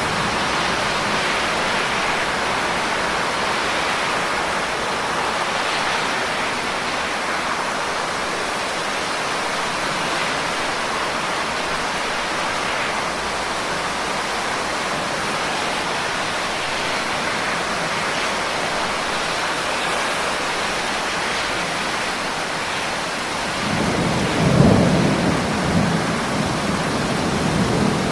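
Steady heavy rain hissing without a break. Near the end, a low roll of thunder rumbles in, sharpest about a second after it starts, then grumbling on.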